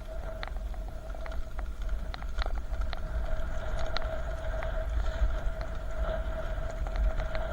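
Wind rumble on the microphone and rolling noise while riding a bicycle, with a steady whine and scattered clicks and ticks.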